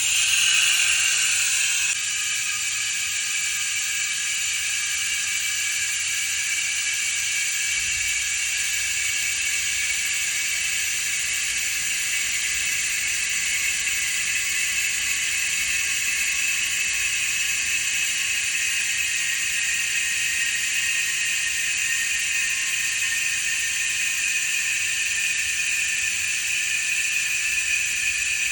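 A steady hiss with several high whistling tones held through it.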